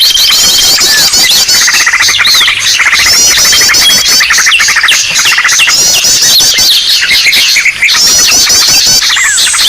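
Loud bird-lure recording of many small birds calling at once: a dense, noisy chorus of overlapping chirps, trills and rapid down-sweeping calls. It is the agitated 'ribut' flock sound used to draw birds in.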